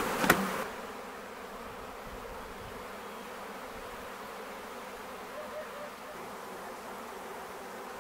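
A honey bee swarm buzzing, a steady hum of many bees. A few sharp knocks sound in the first second, then the hum goes on evenly.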